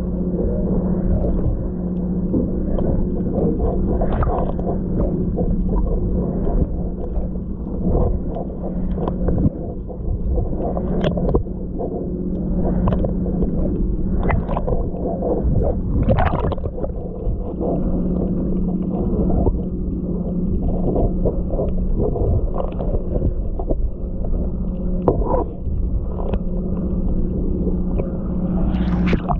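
Water gurgling and slapping against a boat's hulls, with irregular small knocks and splashes, over a steady low machine hum.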